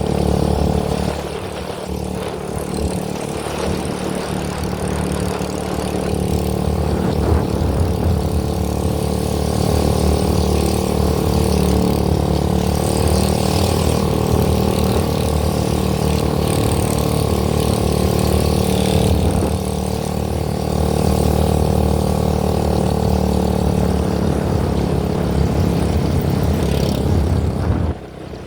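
A vehicle engine running steadily, with a brief drop in level near the end.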